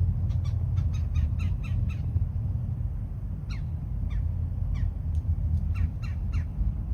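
Crows cawing: short, falling calls in quick runs, over a continuous deep rumble, the distant roar of the Falcon 9 launch.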